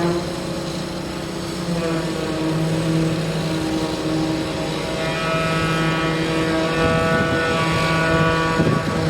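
An engine running steadily, a constant pitched hum that takes on a brighter, higher edge about halfway through.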